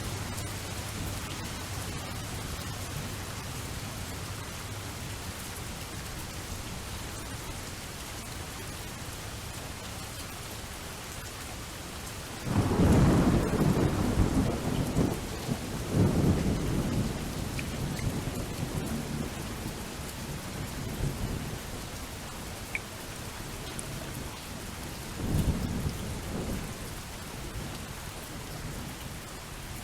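Steady rain with rolling thunder. A loud rumble breaks in about halfway through and swells again a few seconds later, and a smaller roll comes near the end.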